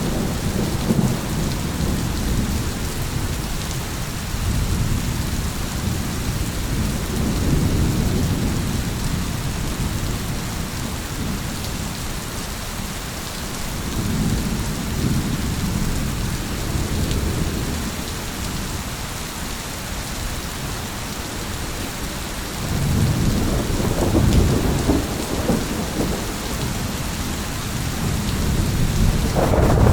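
Thunderstorm: steady rain hissing, with low rolling thunder that swells and fades several times, the heaviest rumble about three quarters of the way through and another building near the end.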